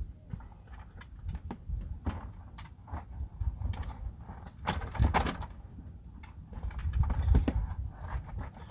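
Irregular knocks, clicks and clatter of hands handling hardware, with louder clusters about five seconds in and again near seven seconds.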